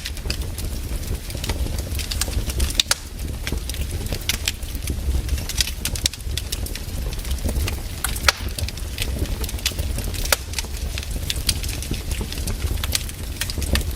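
Wood fire crackling, with irregular sharp pops of varying loudness over a steady low rumble.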